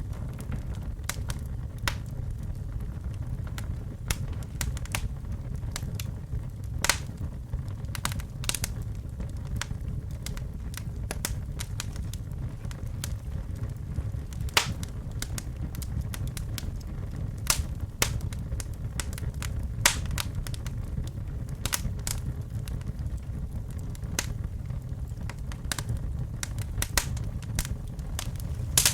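Fire in a fireplace crackling: irregular sharp pops and snaps, a handful louder than the rest, over a steady low rumble of the flames.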